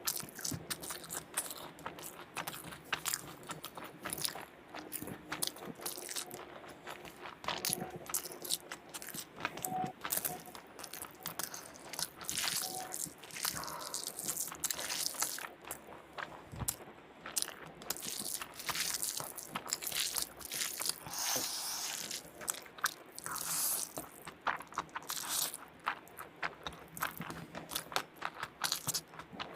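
A person eating close to the microphone: crunchy bites and chewing, with many quick, irregular clicks and smacks.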